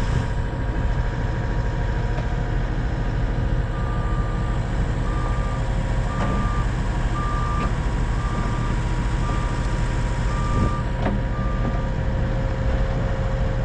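Vehicle backup alarm beeping about eight times at a steady pace of about one beep a second, starting about four seconds in and stopping near the end, over an engine running steadily with a low drone.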